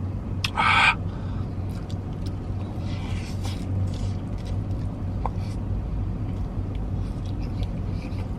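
Steady low hum of a car idling, heard inside the cabin. About half a second in there is one short, loud rustle or crunch, and softer rustling follows around three seconds in, from handling and eating food.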